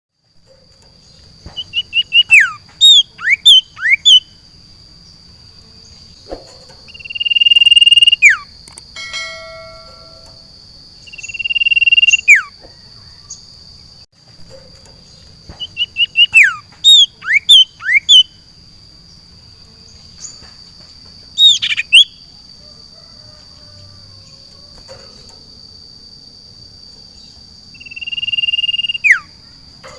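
Common iora (sirtu, cipoh) singing: clusters of quick chips that break into sharp downward-sweeping whistles, alternating with long held whistles that drop at the end, about seven phrases in all. A steady high-pitched tone runs underneath.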